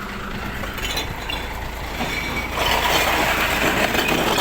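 Glass collection truck's engine running steadily. About two and a half seconds in, a louder clattering rush starts over it.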